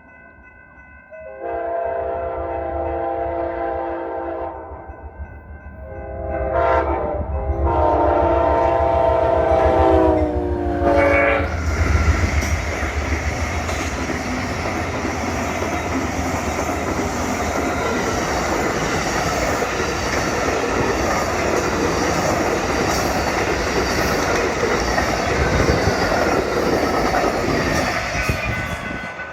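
Train horn sounding two blasts, a short one and then a longer one whose pitch drops near its end as the train comes by. The train then passes close with a steady rumble and wheel-on-rail clatter, fading near the end.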